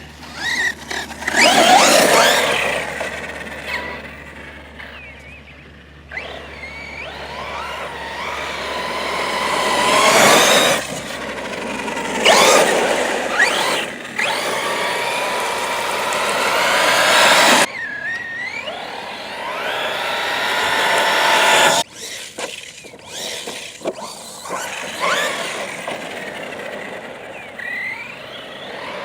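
Arrma Notorious 6S RC monster truck's brushless electric motor whining up and falling back in repeated bursts of acceleration, over a haze of tyre and dirt noise. The sound changes abruptly about two thirds of the way through, and again a few seconds later.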